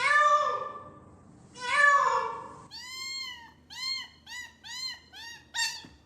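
A cat meowing: two loud, drawn-out meows, then a quick run of about eight short, high-pitched mews.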